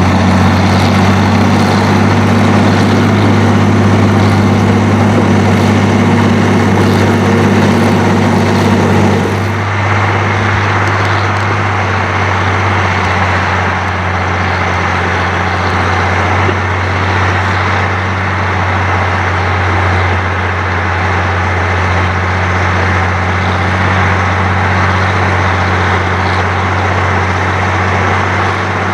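Heavy diesel engines of a Fiat-Allis 14C crawler and a New Holland G240 tractor running steadily hard under load, pulling a deep plow. About nine and a half seconds in the sound changes, losing its high hiss and becoming duller.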